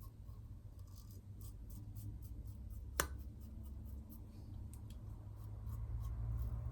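Razor blade scraping through lathered stubble in a run of short, faint scratchy strokes, with one sharp click about three seconds in.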